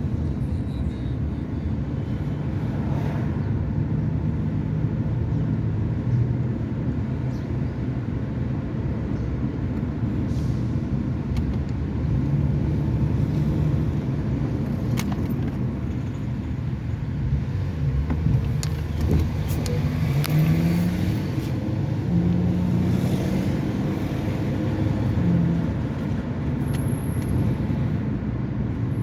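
Steady rumble of cars on a road: engine and tyre noise, with the engine tones shifting in pitch now and then.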